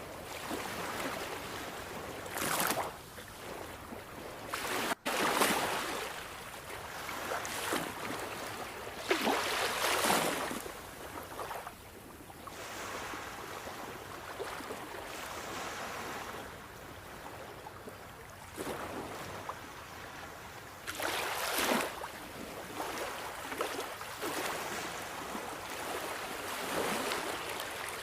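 Sea waves washing on a shore: a steady wash of surf that swells into louder surges every few seconds, the strongest about ten seconds in and again a little past twenty seconds. The sound cuts out for a split second about five seconds in.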